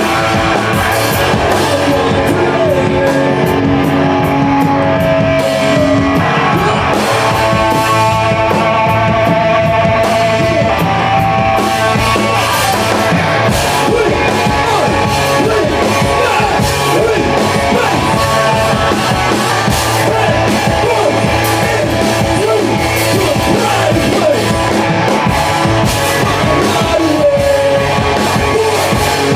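Rock band playing live: electric guitar and drum kit at full volume.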